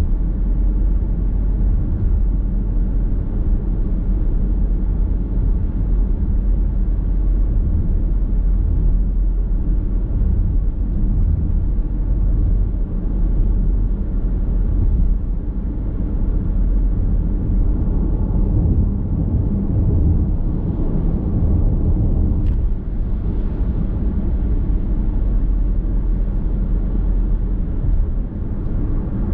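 Car driving at a steady pace, heard from inside the cabin: a steady low road and tyre rumble.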